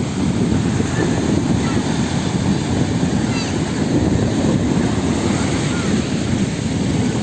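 Wind blowing across the microphone over sea water, a steady low rush without breaks.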